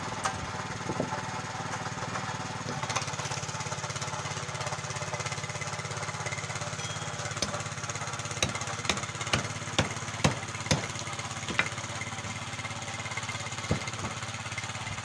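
A motor running steadily. About halfway through, a series of sharp knocks comes over it.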